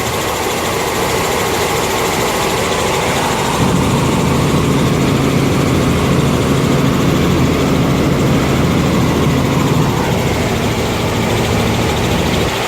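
Helicopter engine and rotor running steadily, a loud even drone with a low hum that swells for several seconds in the middle.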